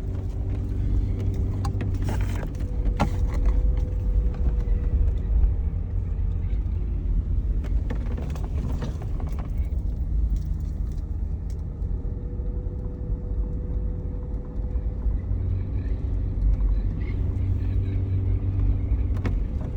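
Off-road vehicle driving slowly on a rocky forest road: a steady low engine rumble with occasional knocks and rattles.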